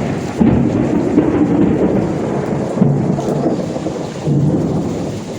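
Thunder rumbling loudly over heavy rain. It rises sharply about half a second in and swells again near the end.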